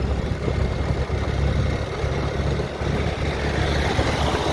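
Motorcycle engine running steadily while riding, a low rumble with road noise.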